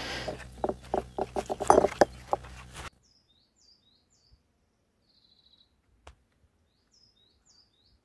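A rapid clatter of sharp knocks over a rough, noisy background, cutting off abruptly about three seconds in. Then, in near quiet, a small songbird sings a short, high chirping phrase twice, with a brief high trill between, and there is one faint click.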